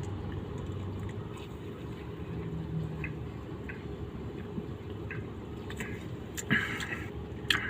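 A person sipping and swallowing cola from a can, with small wet mouth clicks over a steady low background rumble.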